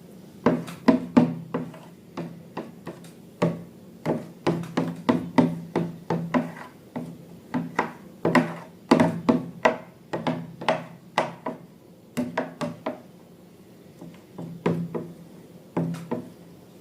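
Irregular series of sharp knocks and taps, about two to three a second, with short pauses, over a faint steady low hum.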